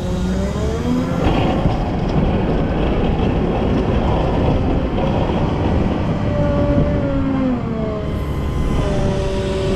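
Volvo L90F wheel loader's diesel engine working over a steady rumble, its pitch repeatedly rising and falling as it revs up and down.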